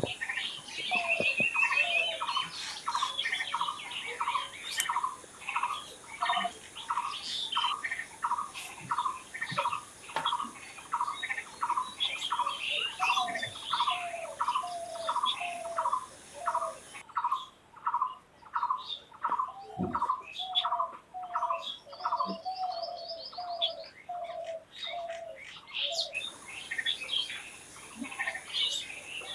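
Several birds calling together: one repeats a short, even note about twice a second for most of the stretch, stopping near the end, while others add lower short notes, scattered chirps and a couple of brief fast trills.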